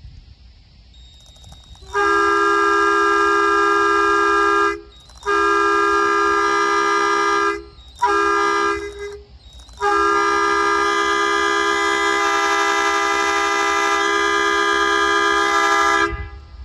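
Locomotive air horn on a Norfolk Southern GE AC44C6M sounding the grade-crossing signal: a steady multi-note chord in two long blasts, one short blast, then a final long blast of about six seconds.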